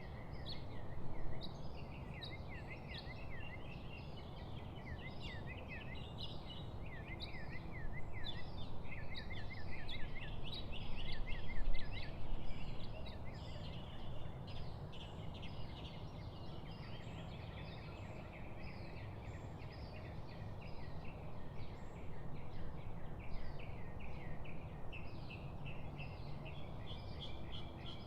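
Many birds chirping and calling over one another in quick repeated notes, over a steady low rumble, with a brief low bump near the middle.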